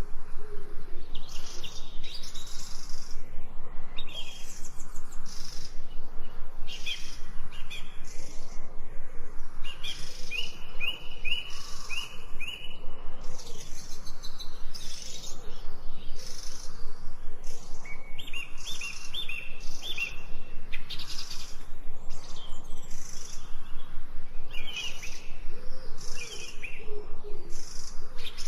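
Several wild birds singing and chirping at once, with runs of quick repeated notes near the middle and again later. A low cooing call comes in at the start and again near the end.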